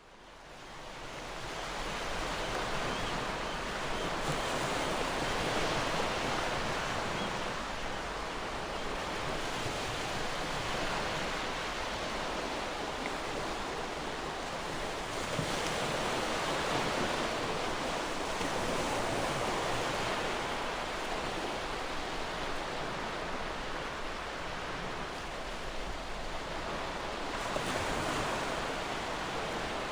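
Gentle ocean waves: a continuous surf hiss with slow swells as the waves wash in, fading up over the first couple of seconds.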